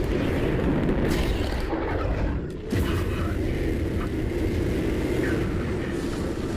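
Film sound effect of a jet aircraft engine: a deep, loud, steady roar. It dips briefly and then surges back suddenly about two and a half seconds in.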